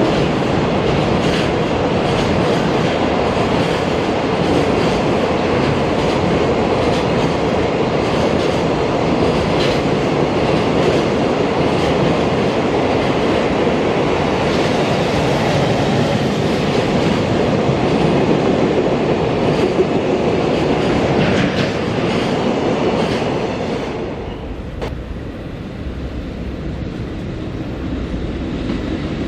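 Freight train wagons rolling past with wheels clacking over the rail joints. The sound drops away about 24 seconds in as the end of the train goes by.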